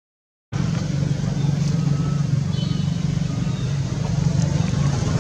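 Motor vehicle engine running steadily, starting abruptly about half a second in, with a few faint short high chirps over it.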